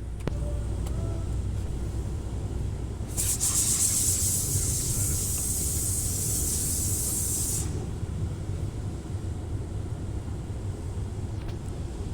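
Automatic car wash running with a steady low rumble. About three seconds in, a loud hiss of spray jets hitting the car starts, lasts about four and a half seconds, then cuts off.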